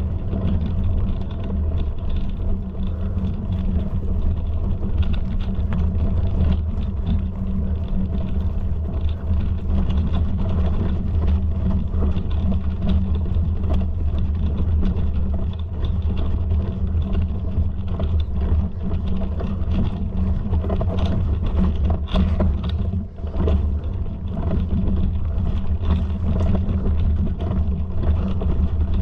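Continuous low rumble with many small clicks and rattles, dipping briefly about 23 seconds in.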